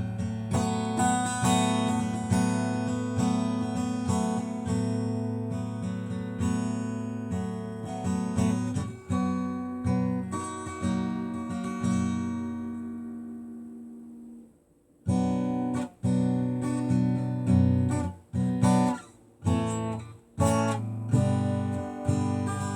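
Acoustic guitar strumming chords in an instrumental passage of a song. About twelve seconds in, the chords are left to ring and fade away. A little after that, strummed chords start again, broken by short gaps.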